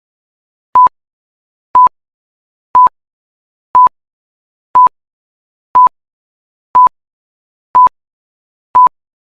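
Short electronic beeps at one steady high pitch, nine of them evenly spaced once a second, with silence between: a countdown timer ticking off the guessing time.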